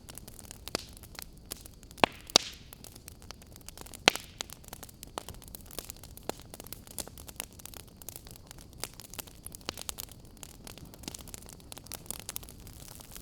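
Wood fire in a fireplace crackling: irregular sharp pops and snaps over a soft steady hiss, with the loudest pops about two seconds in and again about four seconds in.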